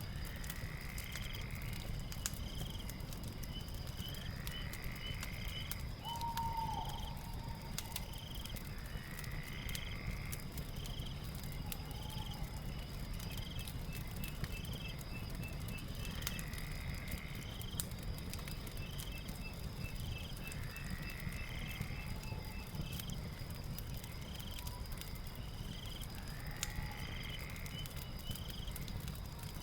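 Night nature ambience mixed with a crackling fireplace: a steady high insect buzz and short chirping calls repeating every second or two, with a couple of rapid trills, over a low fire rumble with faint scattered crackles.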